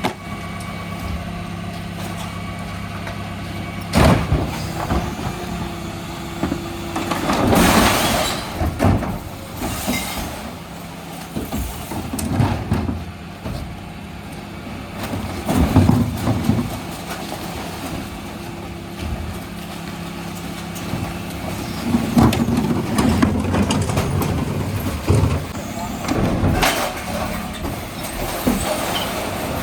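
Dennis Elite 6 refuse truck running steadily, with loud crashes and rattles from recycling being tipped into the hopper by the bin lifters at several moments.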